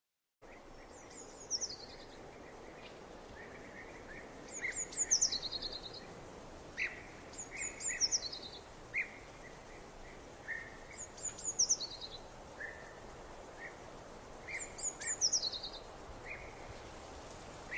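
A songbird repeats a short high phrase of quick chirps that falls in pitch, about every three seconds. Other birds chirp more briefly and lower. All of it sits over a steady hiss of outdoor background noise that begins about half a second in.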